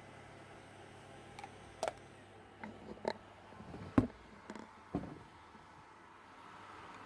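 A handful of irregular short clicks and knocks over a low steady hiss, the loudest about four seconds in.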